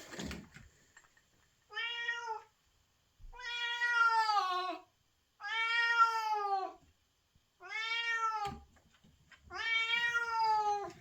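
Female cat in heat calling for a mate: five long, drawn-out meows with pauses between, each falling in pitch at its end.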